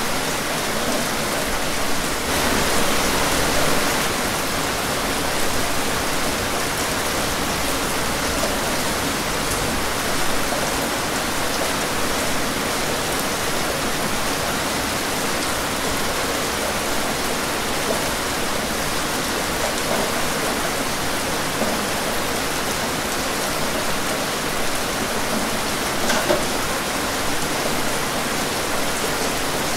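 Heavy rain falling steadily, an even wash of noise with scattered louder drops, the sharpest one near the end.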